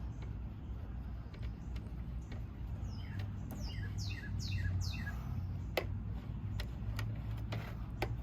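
A bird calls a quick run of about six falling chirps a few seconds in, over a low steady rumble. Near the end come several sharp clicks or taps.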